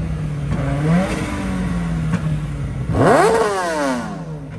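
A car engine idling, blipped briefly about a second in, then revved hard near three seconds, sweeping up and falling back to idle. The exhaust is loud and unmuffled; the car runs with no muffler.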